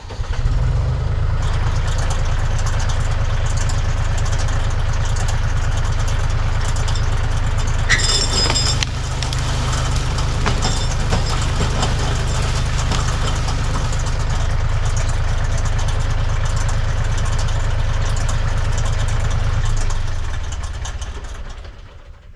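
Tractor engine running at a steady idle, a deep low-pitched drone with a single sharp clank about eight seconds in. The engine fades away near the end.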